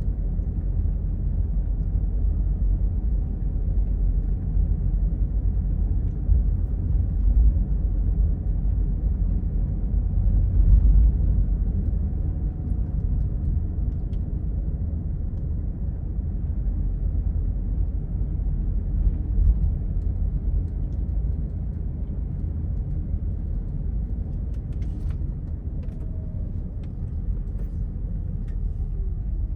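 Car driving along a road: a steady low rumble of tyres and engine that swells slightly around the middle.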